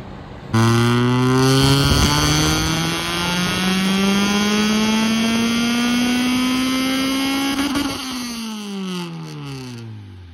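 Honda B20VTEC inline-four (B20 block with a GSR VTEC head, Magnaflow-muffled exhaust) making a wide-open-throttle pull on a chassis dyno for fuel-map tuning. The engine cuts in loud, climbs steadily in pitch for about seven seconds, then the throttle closes and the revs fall away as the rollers coast down.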